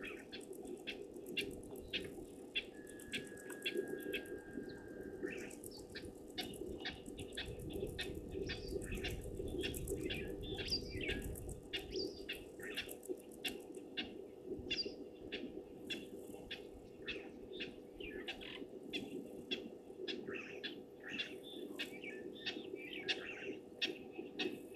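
Birds chirping in quick repeated calls, about three a second, over a steady low hum.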